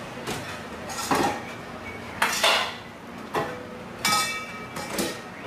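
Dishes clinking and knocking: about half a dozen separate sharp clinks, one of them ringing briefly about four seconds in.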